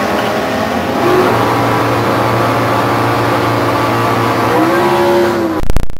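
Two stick-shift AMC drag cars running at full throttle as they pull away down the drag strip, the engine pitch rising and dropping with the gear changes. Loud irregular thumping near the end.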